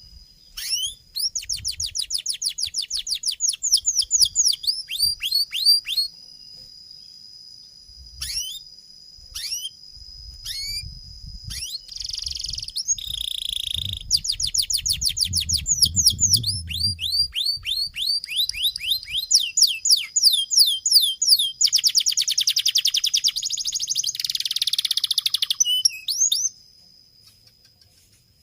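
Domestic canary singing a long song: rapid trills of falling high notes, a held high whistle and buzzy rolls. There is a short pause a few seconds in, and the song stops near the end.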